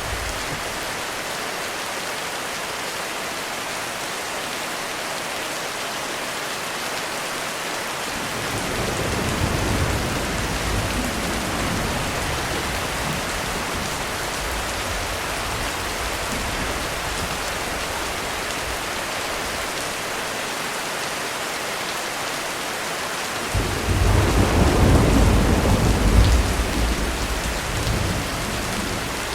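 Heavy rain falling steadily on a roof, with thunder rumbling twice: a moderate roll about a third of the way in, and a louder, closer peal that breaks suddenly near the end and then rolls away.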